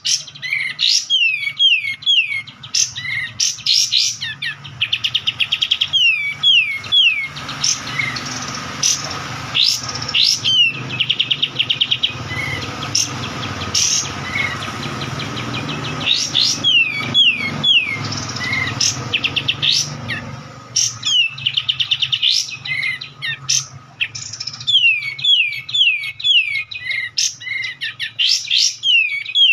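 A bird singing in bouts: series of quick downward-sweeping whistled notes mixed with fast rattling trills.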